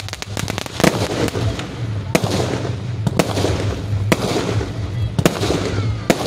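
Aerial fireworks firing and bursting overhead: sharp bangs about once a second, with crackling in between.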